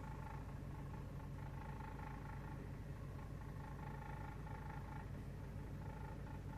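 Steady low mechanical hum, like an idling or distant engine, with a faint high steady tone above it that breaks off briefly now and then.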